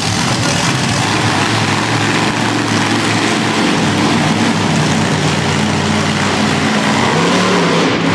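Monster truck engine running hard under load and revving, a loud, steady engine noise whose pitch rises and falls a little near the end.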